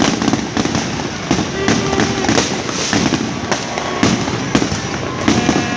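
Fireworks exploding in a rapid, continuous barrage of bangs and crackles.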